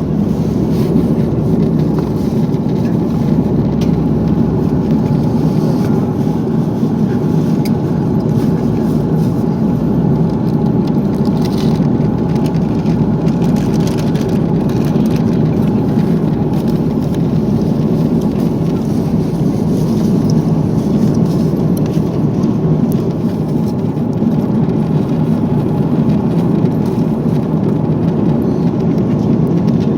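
Steady low drone of an Airbus A340 airliner's cabin, engine and airflow noise holding even throughout.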